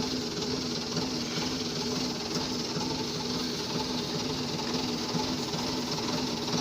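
Front loader's engine idling steadily: a continuous low hum that wavers slightly at a regular pace.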